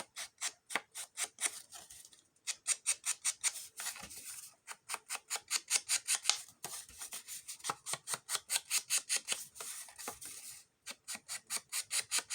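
Quick, even rubbing or scraping strokes against paper, about six a second, in runs of a couple of seconds with short breaks between them.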